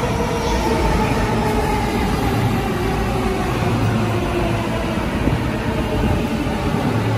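JR Chuo Line E233-series electric train running past along the platform while braking to a stop. Its motor whine falls slowly in pitch over a steady rumble of wheels on rail.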